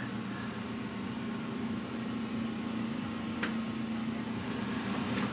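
Steady low mechanical hum with a single sharp click about three and a half seconds in.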